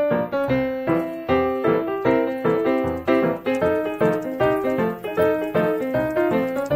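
Background piano music: a steady run of plucked-sounding piano notes playing a melody with chords.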